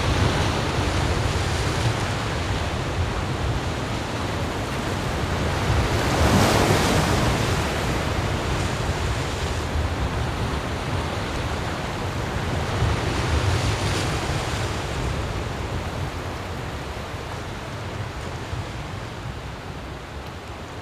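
Sea surf washing in with wind on the microphone, a steady rushing noise that swells as a wave breaks about six seconds in and again around thirteen seconds, then slowly fades.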